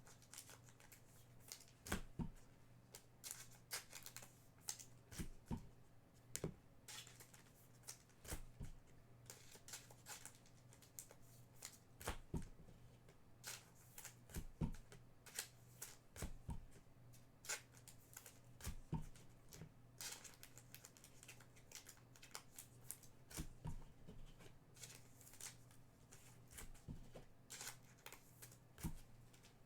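Trading cards being handled and sorted: irregular light clicks, taps and rustles of cardboard, several every few seconds, over a faint steady hum.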